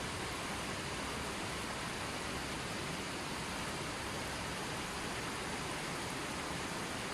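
Running water rushing steadily, an even unbroken sound with no music.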